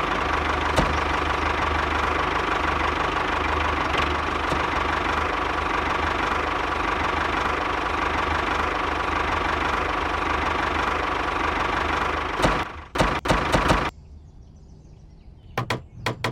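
A miniature DIY tractor's small motor running steadily with a whine. It stops suddenly about twelve and a half seconds in, followed by a few clicks and knocks.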